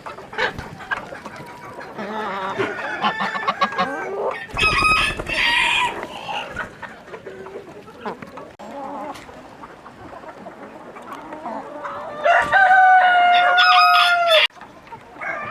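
Chickens clucking, with a rooster crowing loudly near the end in one long, slightly falling call.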